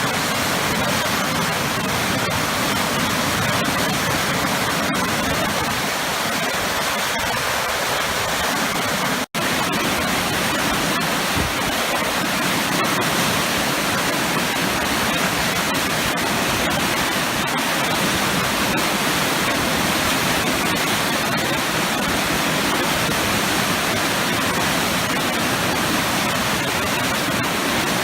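Waterfall pouring into a churning plunge pool, a steady, dense rushing of water. It is broken by a split-second dropout about nine seconds in.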